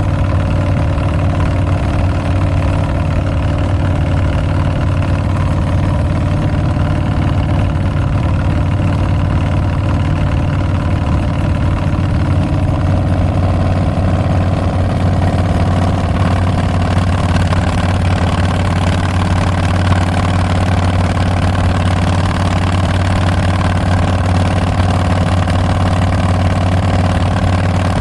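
Harley-Davidson Milwaukee-Eight 114 V-twin running through Tabs Performance slip-on mufflers with Zombie Baffles, a steady loud exhaust note. About halfway through, the sound takes on more upper-middle tone.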